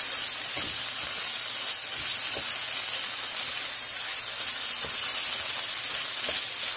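Chopped onions and ginger-garlic paste frying in oil and butter in a kadhai: a steady sizzle, with a spatula stirring and now and then tapping the pan.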